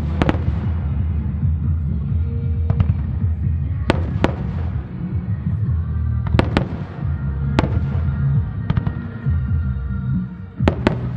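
Aerial firework shells bursting: about ten sharp bangs, several in quick pairs, over music with a steady heavy bass.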